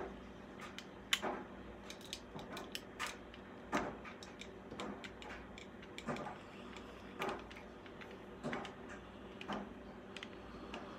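Irregular light clicks and taps of plastic packaging being handled and pried apart to free a diecast model car from its package.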